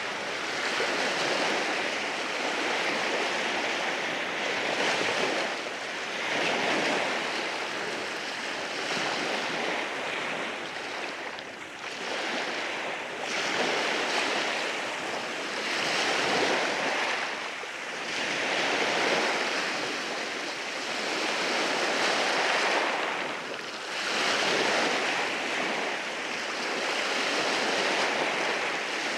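Sea waves breaking and washing in over a rocky shore, a continuous rushing surf that swells and eases every few seconds.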